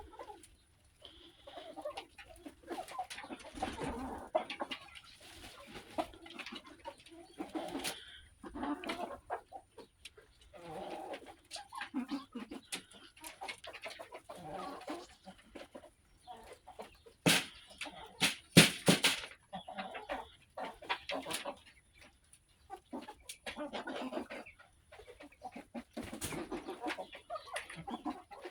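Backyard chickens clucking on and off as they feed. A few sharp knocks or taps about two-thirds of the way through are the loudest sounds.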